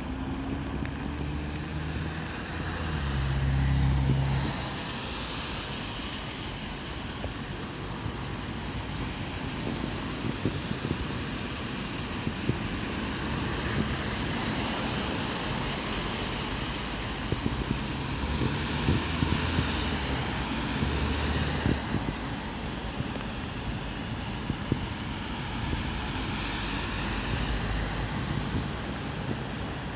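Road traffic on a rain-wet road: vehicles passing one after another with tyres hissing on the wet asphalt. A heavy vehicle's engine swells loudest about three to four seconds in.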